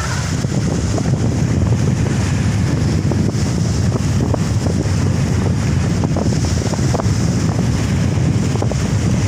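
Strong wind buffeting the microphone in a steady low rumble, over the rush of large surf waves.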